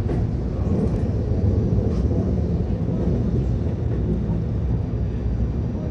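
Keihan 10000 series electric train running, heard from inside the passenger car: a steady low rumble of wheels on rail and running gear, with a few faint light clicks.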